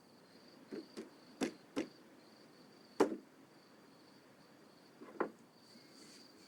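About six short, sharp knocks at uneven gaps, the loudest about three seconds in, over a faint, steady, high insect chirring.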